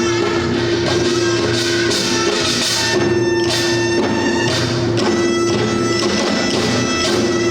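Korean traditional drum-dance music: drums beating steadily under a sustained melody that breaks off and resumes every second or two.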